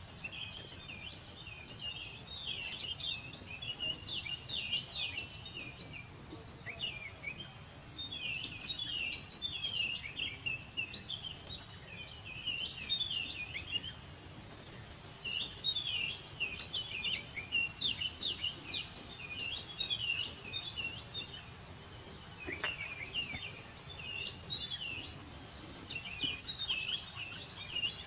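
Small birds chirping and twittering rapidly, in bouts of a few seconds with brief pauses between, over a low steady background noise.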